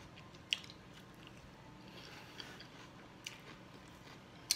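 Someone chewing a mouthful of lettuce salad close to the microphone, faint and crisp. A few short clicks break in, the loudest near the end as a metal fork strikes the plate.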